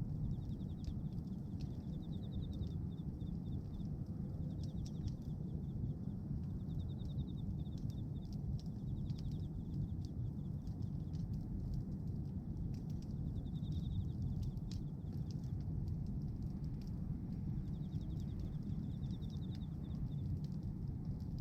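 Bonfire of pruned branches burning: a steady low rush of flame with scattered crackles and pops. A rapid high trill sounds several times in the background.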